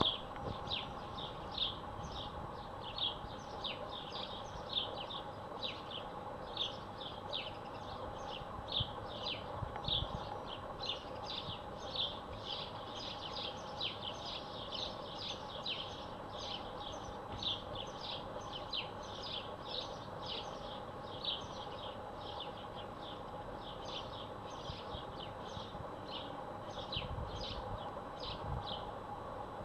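Small birds chirping: short, high, falling chirps, two or three a second, over a steady low background hum.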